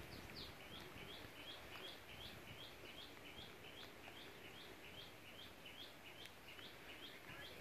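A bird calling in a quick, even series of short chirps, each rising then dropping, about three a second. It sits faintly over a low background hiss.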